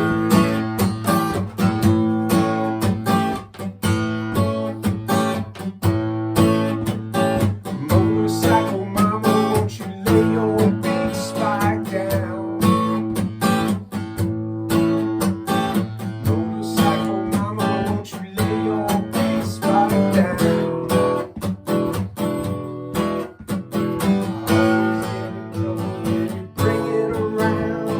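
Acoustic guitar playing an instrumental passage of the song, strummed with picked notes.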